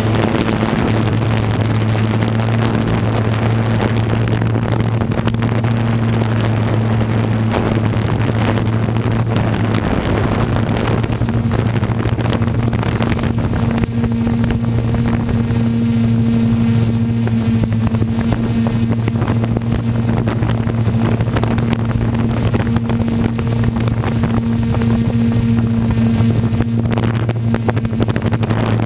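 Pulling truck's engine running hard and steady under load, a loud even drone that holds pitch throughout, with wind buffeting the microphone.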